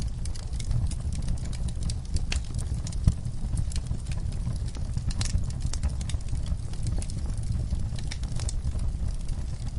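Wood fire in a fireplace crackling, with irregular sharp pops over a steady low rumble of flames; one pop stands out about three seconds in.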